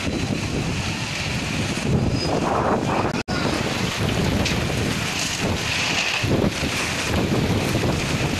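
Storm wind gusting hard and buffeting the microphone, with a rushing of heavy rain beneath it. The sound cuts out for an instant about three seconds in.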